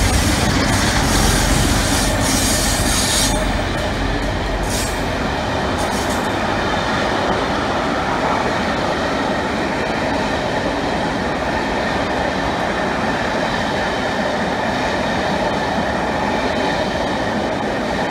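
A double-headed diesel train passing close by. The second Class 47 diesel locomotive is loud for about the first three seconds, and its hiss cuts off as it goes by. Then the Pullman coaches roll past with a steady rumble of wheels on rail and a faint high squeal.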